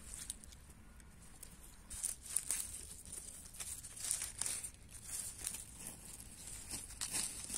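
Irregular rustling and crinkling as wild bitter lettuce leaves are handled and torn from the plants, in short clusters a second or so apart.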